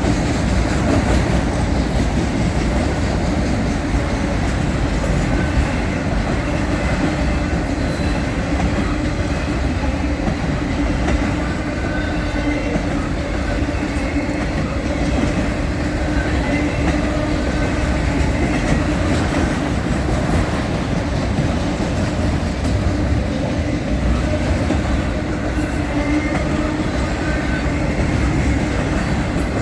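Freight train of empty autorack car-hauler cars rolling past in a steady rumble of steel wheels on rail, with clickety-clack and short, thin wheel squeals now and then.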